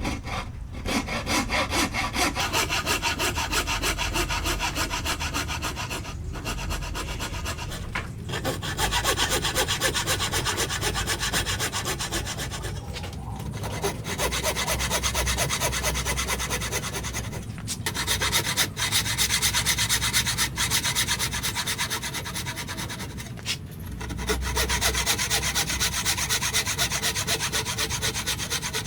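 Hand saw cutting through wood in quick back-and-forth strokes, in several long runs with short pauses between them.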